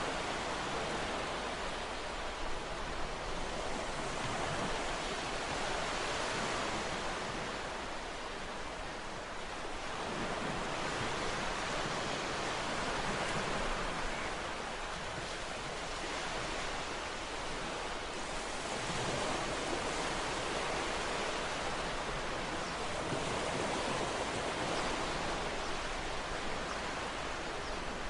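Ocean waves breaking and washing on a shore, a steady surf hiss that swells and eases every few seconds.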